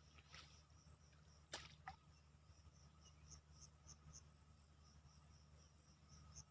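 Faint insects chirping in quick high pulses, about four a second, setting in about halfway through. There are two short sharp swishes in the first two seconds, over a steady low hum.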